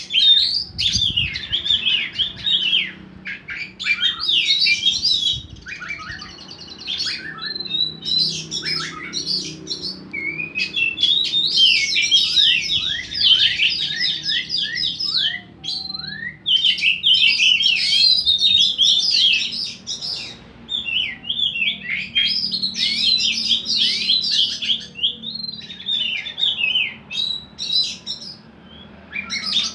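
Caged songbirds singing against each other in bursts of quick, varied chirping phrases, a few seconds each, with short pauses between.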